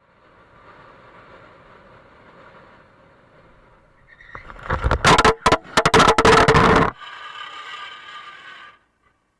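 Vehicle running noise heard from inside a car, then, about four and a half seconds in, a loud collision: a rapid series of crashes with scraping and clatter lasting about two and a half seconds, after which quieter running noise goes on until it cuts off suddenly.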